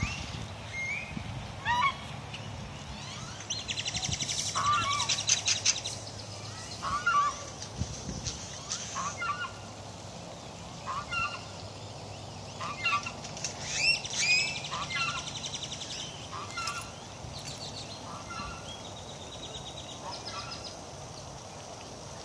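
Birds calling: short, hooked calls repeating about once a second, with a few raspier, buzzier calls mixed in, over a faint low hum.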